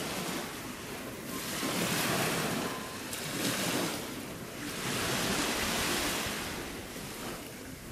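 Sea waves washing over the shore rocks and reef, the surf swelling and ebbing about three times, with some wind on the microphone.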